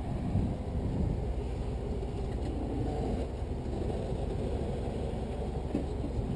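Off-road vehicle engine running low and steady as the rig crawls slowly over rock.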